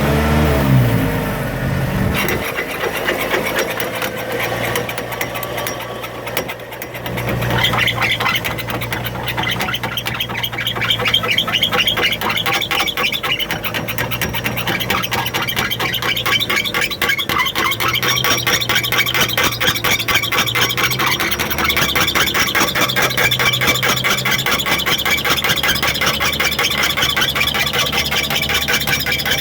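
Renault 16's four-cylinder engine running, its hum shifting pitch now and then. From about seven seconds in, a fast, continuous rattling tick runs over it: the drive shaft noise the owner has tracked down.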